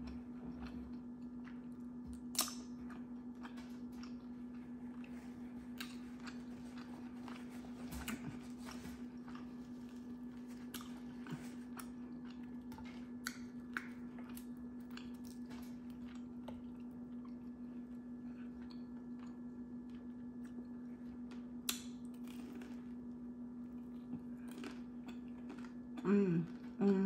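Close-miked chewing of crispy fried chicken wings, with scattered sharp crunches of the fried coating between quieter chewing, over a steady low hum. A short voiced hum of approval near the end.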